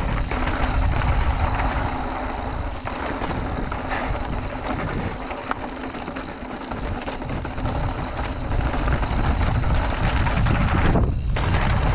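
Riding noise on a mountain bike: wind buffeting the camera microphone over the rattle and rumble of tyres and drivetrain on the trail, with small irregular clicks throughout. It dips briefly near the end.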